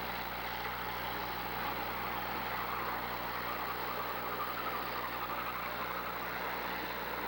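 Several demolition derby cars' engines running at once, a steady mixed engine noise with no single crash standing out.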